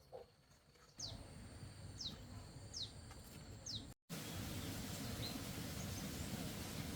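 A bird calling four times, each call a short high chirp falling in pitch, a little under a second apart, over faint outdoor background noise. The audio cuts out briefly about four seconds in, then the outdoor background noise returns louder.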